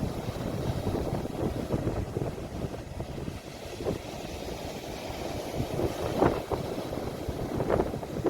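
Sea waves washing at the shore, recorded on a phone with wind rumbling on the microphone. A few brief surges of water stand out near the middle and end.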